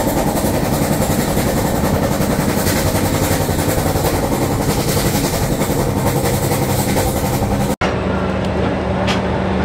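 Train in motion: a loud, steady rush of wheel-and-rail noise. Near the end it cuts off abruptly to a duller running sound with a steady low hum.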